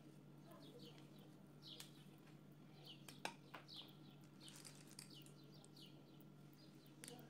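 Faint bird chirps, short falling notes one or two a second, over a steady low hum, with a few light clicks.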